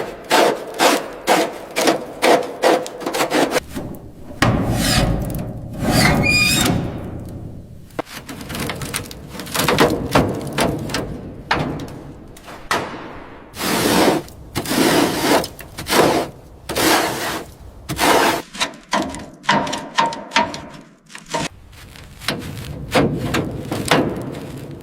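Hand work on a restoration piece: rapid repeated rubbing and scraping strokes, about four a second at first, then slower and uneven, with a short high squeak about six seconds in.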